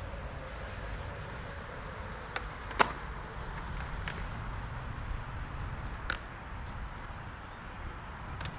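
A handful of sharp knocks or clacks, the loudest about three seconds in, over a steady low rumble of city traffic.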